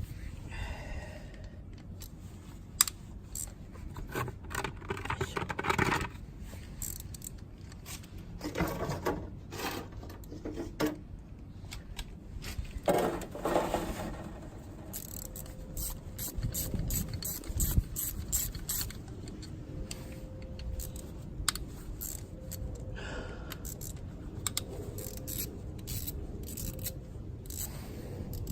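Hand tools working on a motorcycle engine cover: a ratchet wrench clicking as bolts are undone, with metal tools clinking and scraping. Several short rasping spells and scattered sharp clicks.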